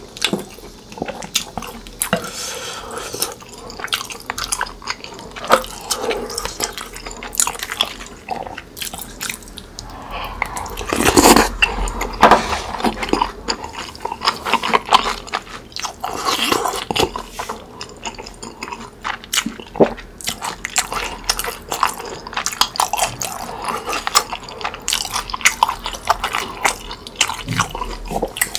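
Close-miked wet chewing and lip smacking of tteokbokki, chewy rice cakes in thick red sauce, with a wooden spoon moving through the sauce. The mouth sounds are busiest and loudest a little before the middle.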